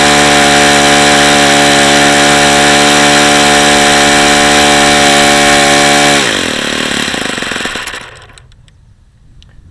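Saito FA-45 four-stroke glow model-airplane engine with its propeller running steadily at full throttle, around 8,700 RPM. About six seconds in, the revs drop quickly and the engine stops, the sound dying away. The engine has badly worn bearings and runs hot, well short of the 9,500-plus RPM it should make.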